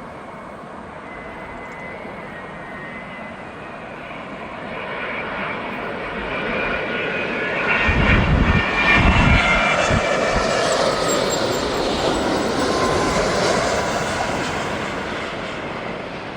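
British Airways jet airliner on landing approach flying over: the engine noise builds, is loudest and rumbles around the middle, then fades away. A high whine in it drops in pitch as the plane passes.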